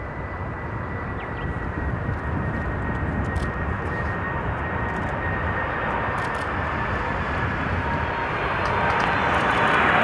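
Boeing 747-400 jet approaching to land, its engine noise growing steadily louder as it nears. A steady high whine runs through it, dropping slightly in pitch, and a lower whine joins near the end.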